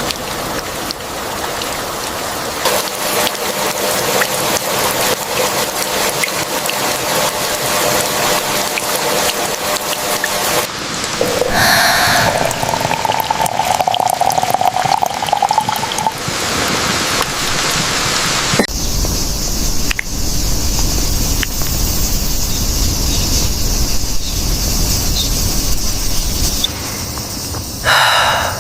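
Steady rain falling, with a short pitched sound about twelve seconds in. The rain changes in character about eleven seconds in, and again near nineteen seconds in, where a low rumble joins it.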